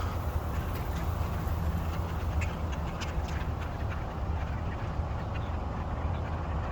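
A large flock of birds calling and chattering, many short overlapping calls, over a steady low rumble.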